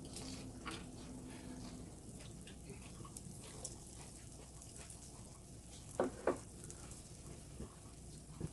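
Meat sizzling quietly on a grill, a soft steady hiss with scattered small crackles, and two sharp clicks about six seconds in.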